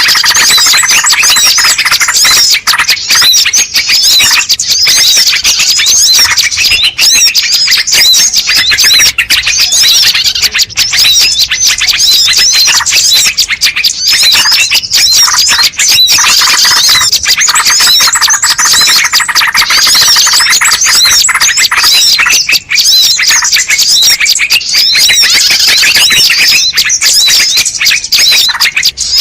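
A loud, dense chorus of small birds chirping and trilling over one another without pause: a recorded bird-lure call track.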